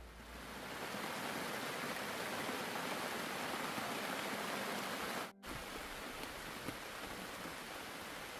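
Heavy rain pouring down as a steady hiss. It breaks off for an instant a little past halfway and resumes slightly softer.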